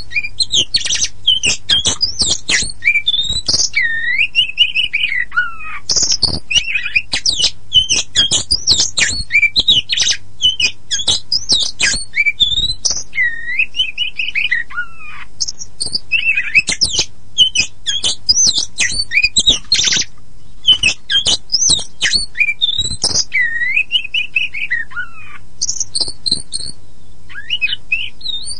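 Oriental magpie-robin (kacer poci, the black-and-white form) singing a loud, varied song: rapid chattering phrases, sharp high notes and whistles that slide downward, broken by short pauses.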